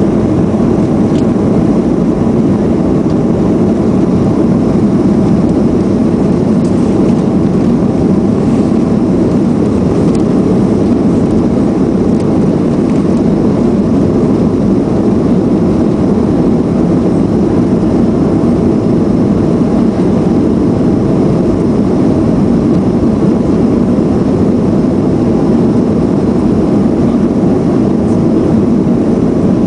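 Boeing 737-400's CFM56-3 jet engines running during take-off: a loud, steady noise with no rise or fall.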